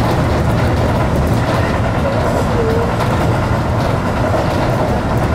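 Electric commuter train running along the line, heard from inside at the front: a steady rumble of wheels on the rails, with a faint wavering tone now and then.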